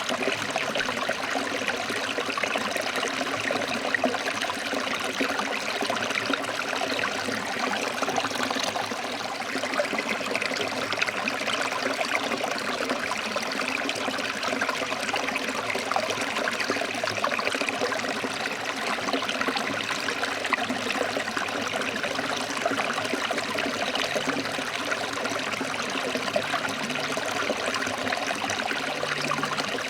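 Forest stream flowing and splashing over rocks: a steady, even rush of water.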